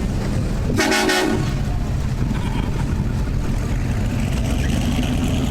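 A vehicle horn honks once, briefly, about a second in, over the steady low rumble of running engines.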